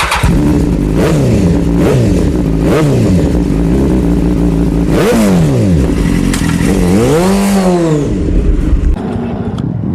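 KTM RC 200 Gen 2 single-cylinder engine revving up and down in a series of short rises and falls, with one longer rev about three-quarters of the way through.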